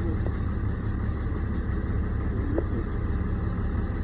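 Truck engine running steadily with a low rumble, with two brief rising whines, one near the start and one in the middle.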